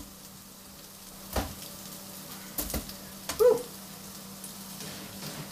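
Bacon bits and chicken pieces sizzling in a frying pan over a gas flame. Over the sizzle come a few sharp knocks and, about three and a half seconds in, a short squeak that is the loudest sound.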